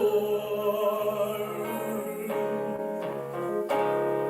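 Congregational worship singing with instrumental accompaniment: a held sung note on "Lord" over sustained chords, which change about two seconds in and again near the end.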